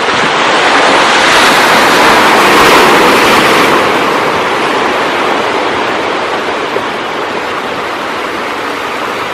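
Ocean surf: a wave breaks and swells to its loudest about three seconds in, then washes out and eases into a steady hiss.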